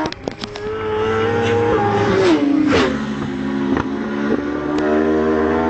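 Superbike engine at racing speed, a steady high note that drops sharply in pitch as the bike goes past about two and a half seconds in, then holds a lower note.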